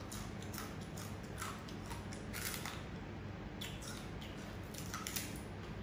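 Chewing and picking at a crisp fried grouper head: irregular soft crunches and mouth clicks, over a low steady hum.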